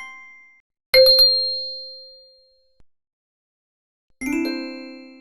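Bell-like chime tones: a quick cluster of strikes about a second in rings out and fades, then a fuller chord of chimes starts near the end. The sound drops to dead silence between the groups.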